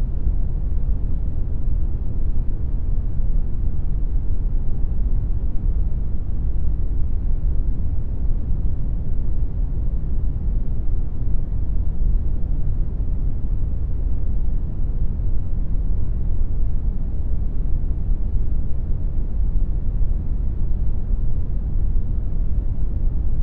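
Steady synthetic brown noise: an even, deep rumbling hiss with no changes or events, heaviest in the bass and fading toward the treble.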